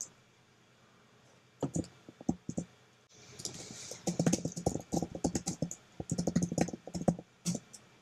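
Typing on a computer keyboard: a few separate key or mouse clicks about two seconds in, then a quick run of key taps from about four seconds in until just before the end.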